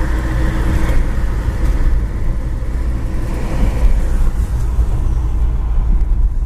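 Car driving along a city street: a steady low rumble of engine and road noise.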